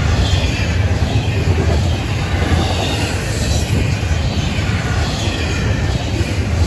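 Double-stack intermodal freight cars rolling past at close range: a steady rumble of steel wheels on rail.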